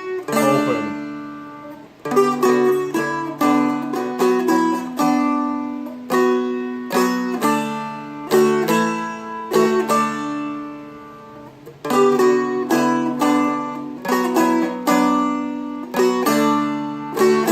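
Seagull Merlin M4, a four-string mountain-dulcimer-style strumstick, flatpicked through a chord-melody passage: several picked notes a second over ringing drone strings, the phrase starting over about two seconds in and again about twelve seconds in.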